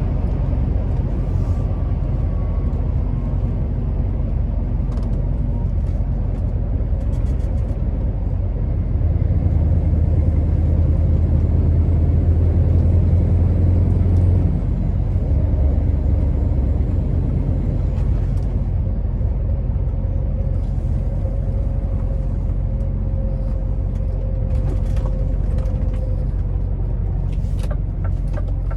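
Scania R650's V8 diesel engine running steadily on the road. For about five seconds in the middle it grows louder and deeper, then settles back.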